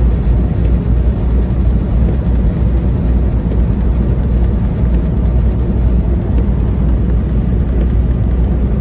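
Semi truck driving at highway speed: a steady, low engine and road rumble.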